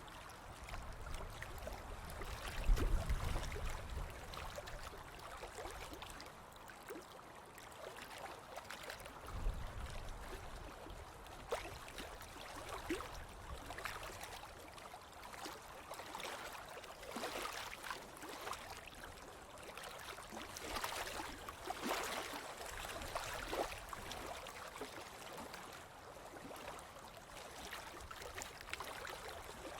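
Ocean waves washing and fizzing on a beach in a steady, uneven wash that swells several times. A brief low rumble comes about 3 seconds in and another about 10 seconds in.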